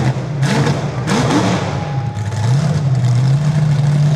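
A heavy vehicle's engine running steadily, its pitch stepping up and down as it revs, with a few sharp thuds in the first second and a half.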